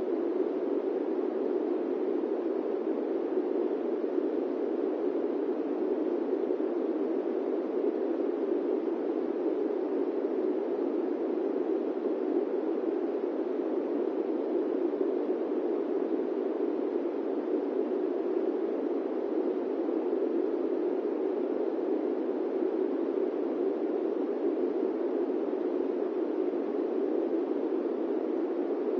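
Steady airplane-cabin white noise: a dull, even rushing hiss weighted toward the low-middle range, unchanging throughout.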